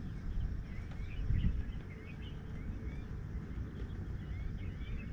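Small birds chirping again and again, short quick calls, over a steady low rumble.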